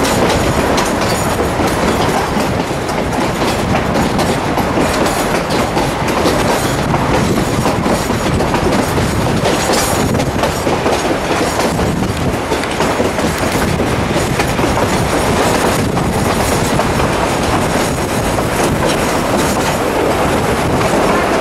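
Narrow-gauge passenger train running, heard from aboard: a steady rumble of wheels on the rails with a few knocks.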